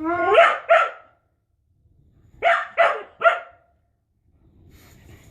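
A pet dog vocalizing: a rising, drawn-out call with a short second one right after it, then three quick short barks about two and a half seconds in.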